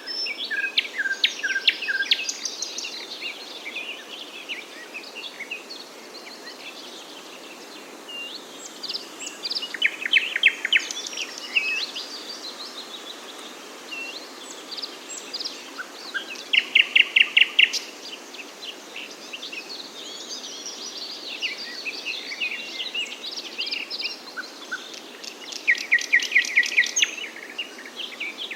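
Several songbirds chirping and singing, with loud rapid trills of repeated notes about ten seconds in, near the middle and near the end, over a steady background hiss.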